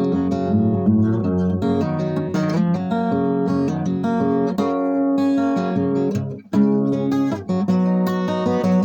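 Acoustic guitar strummed in chords, an instrumental passage without singing, with a brief break about six and a half seconds in before the strumming resumes.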